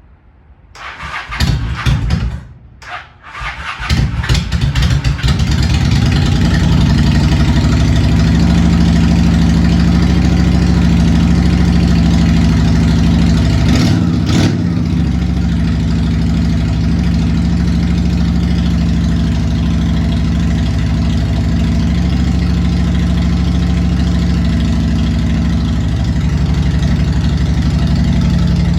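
2001 Honda Shadow 750 ACE V-twin cranking on the starter in short spurts, which is a hard cold start on a weak battery. It catches about four seconds in and then idles steadily.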